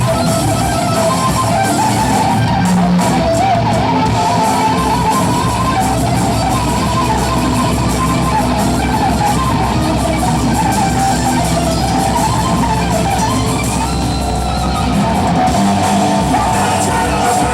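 Live hard rock band playing, with a distorted electric guitar to the fore over bass and drums.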